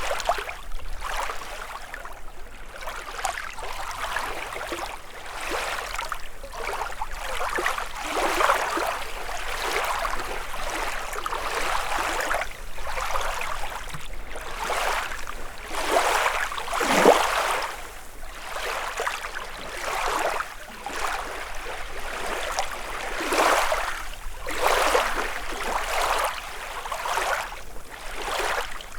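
Small lake waves lapping and splashing on the shore in irregular surges, with a louder splash a little past halfway.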